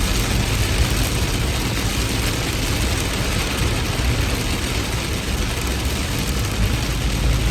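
Heavy rain falling steadily, an even hiss with a deep, constant low rumble underneath.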